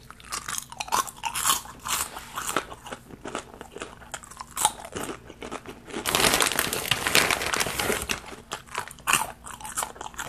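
Close-miked crunching and chewing of Cracker Jack caramel-coated popcorn and peanuts, in many short crisp bites. About six seconds in, the snack bag is shaken, giving about two seconds of denser rustling.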